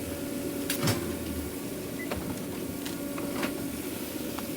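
Steady hum of food-truck kitchen equipment, with about half a dozen sharp clicks and knocks of things being handled; the loudest knock comes just under a second in.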